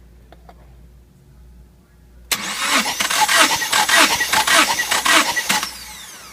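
Subaru EJ253 2.5 L flat-four being cranked over by its starter motor for a compression test. It starts about two seconds in with a steady rhythm of compression strokes, about three a second, over the starter's whine, then stops after a little over three seconds and the whine runs down.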